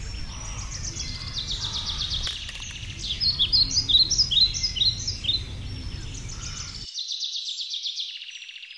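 Birds chirping and singing in quick repeated notes and short trills over a low background rumble. The rumble cuts off abruptly about seven seconds in, leaving only the birdsong.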